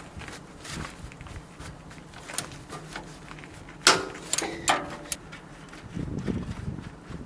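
Metal clinks and knocks of hand tools working on the steel parts of a manure spreader while a pillow block bearing is being taken off. About four seconds in comes one loud ringing metal clank, followed by two smaller ringing knocks.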